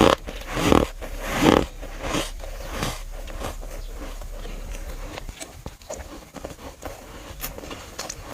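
A few crunching bites into chunks of dry, powdery freezer frost in the first three seconds, each fainter than the last, then quieter chewing with small crackles.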